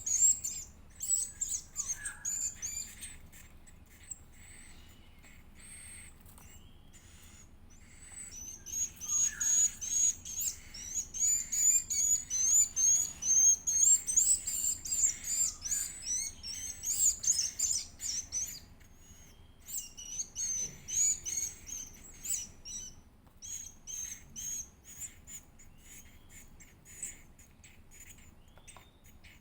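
Edible-nest swiftlet chick cheeping: rapid, high-pitched chirps in bursts, a long loud run in the middle, then thinning out. These are the begging calls of a chick being fed.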